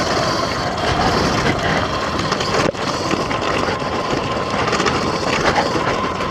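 X Pro dirt bike engine running steadily in second gear while the bike is ridden along a trail.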